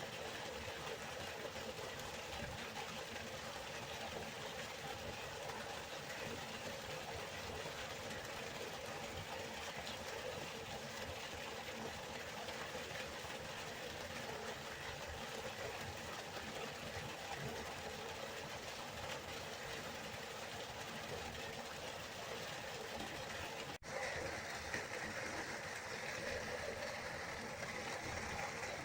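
River water flowing in a steady, continuous rush. It drops out for an instant about 24 seconds in and then resumes a little brighter.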